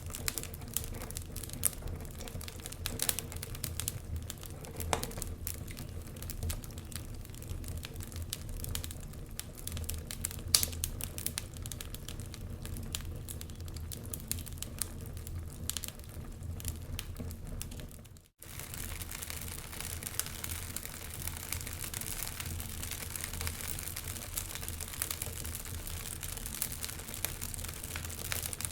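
Wood fire burning in a fireplace, crackling with frequent sharp pops over a low rumble and hiss. About eighteen seconds in, the sound cuts out for a moment, then comes back as a steadier hiss with fewer pops.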